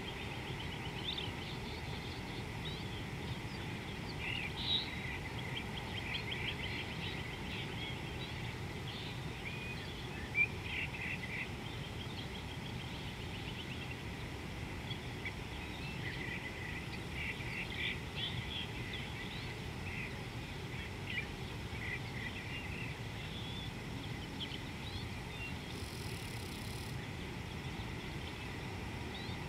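Wild birds chirping and trilling in scattered bursts over a steady low outdoor background rush.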